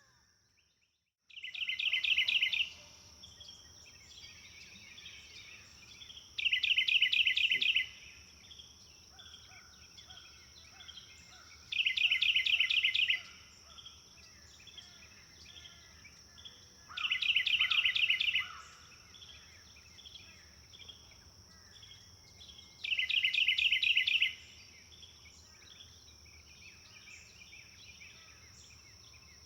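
Birdsong ambience: a songbird repeats a short, fast trill about every five seconds, with softer chirps from other birds in between, over a steady high-pitched insect drone. The sound drops out almost completely for about the first second.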